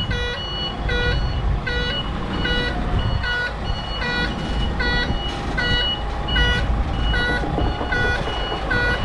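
Container truck's reversing alarm beeping steadily, about four beeps every three seconds, over the low running of the truck's engine as it backs up.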